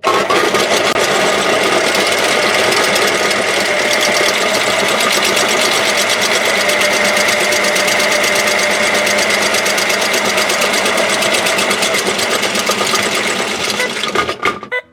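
Toy washing machine running its spin cycle: a steady, fast mechanical whirring rattle that starts abruptly and cuts off after about fifteen seconds.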